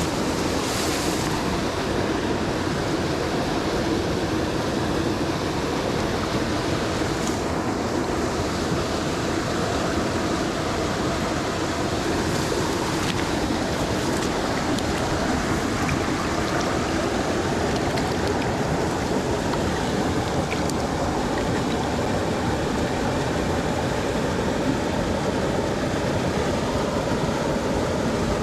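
Water of a small mountain stream rushing steadily.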